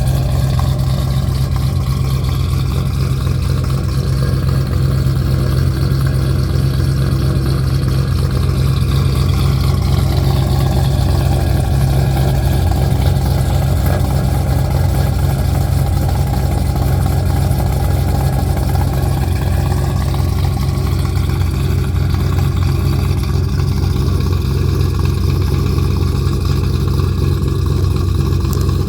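Cadillac CTS-V's V8 idling steadily shortly after a cold start, its exhaust running through small off-the-shelf Flowmaster mufflers.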